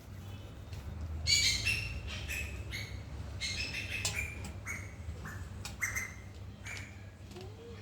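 Birds squawking and chirping in quick short, high calls, several close together, starting about a second in, over a low steady hum.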